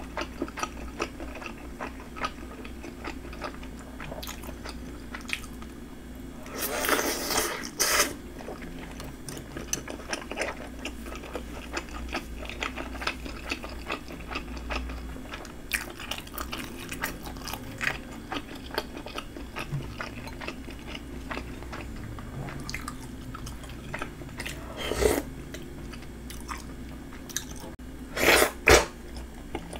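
A person chewing chewy spicy red fish cake and Chinese glass noodles, with soft wet mouth sounds and small clicks throughout. A few louder bursts come about seven seconds in, around twenty-five seconds, and twice near the end.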